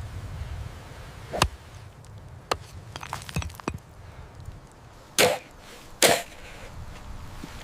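A series of irregularly spaced sharp chopping strikes, about seven in all; the two loudest and longest come about five and six seconds in. A low rumble sits underneath for the first second and a half.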